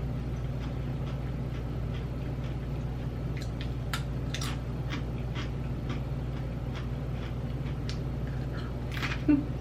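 Dill pickle potato chips being chewed: scattered sharp crunches, a burst of them a few seconds in and another near the end, over a steady low hum.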